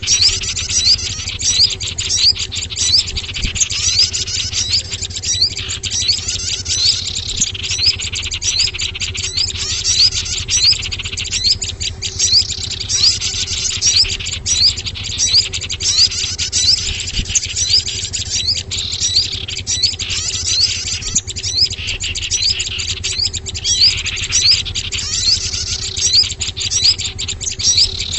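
Bird-lure (pikat) recording of small songbirds: a dense, unbroken stream of rapid, high-pitched chirps and short calls from many birds at once, over a steady low hum.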